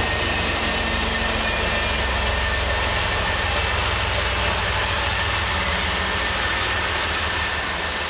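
MBTA commuter train running past on the rails, with a steady rumble of wheels and its diesel locomotive, plus a thin steady high whine; the noise eases a little near the end as the train draws away.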